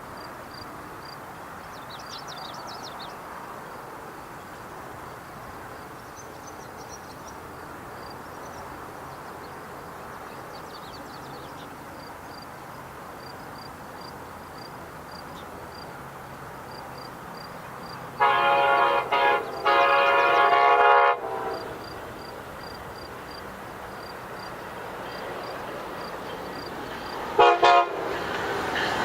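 Diesel locomotive air horn sounding for a grade crossing: two long blasts, then a short one several seconds later. Beneath it runs the growing rumble of the approaching train.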